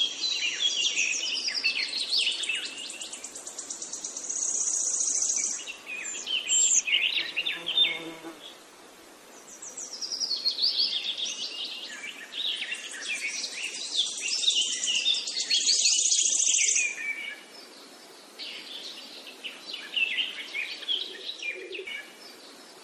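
A songbird singing: quick high chirps and long fast trills in extended phrases, with brief lulls between them.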